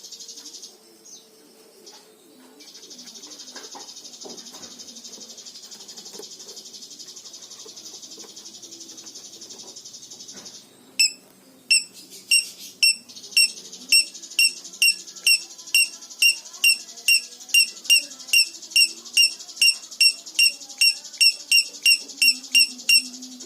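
Songbird call, the bird the title calls 'minor': a long, fast, buzzy high trill, then a string of sharp, loud chips about three a second over a continuing trill.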